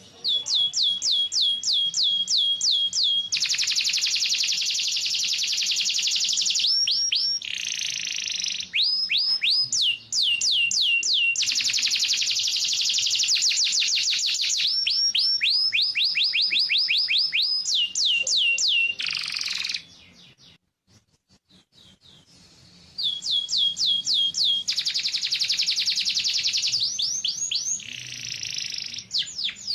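Domestic canary singing: long runs of fast repeated sweeping notes, shifting from one note type to the next, with a pause of about three seconds past the middle before the song resumes.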